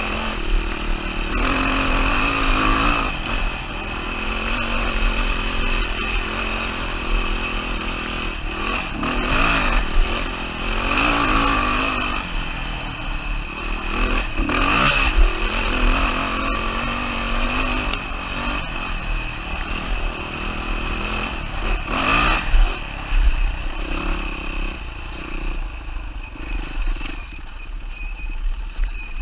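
2007 Yamaha WR450F's single-cylinder four-stroke engine running under way, its pitch rising and falling again and again as the throttle is worked. Occasional clatter and knocks come through.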